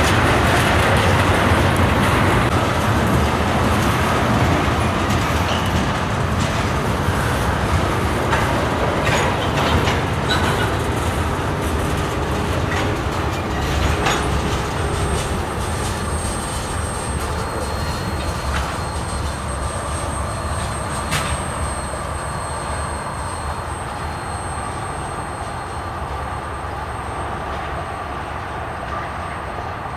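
Freight train cars rolling past, wheels clicking over the rail, the rumble fading steadily as the train draws away. A faint thin high tone comes in about halfway through.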